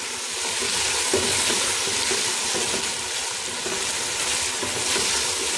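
Boneless chicken pieces sizzling in hot oil in a wok, freshly coated with vinegar, soy sauce and chilli sauce, while a metal spoon stirs them. A steady sizzle runs under the stirring.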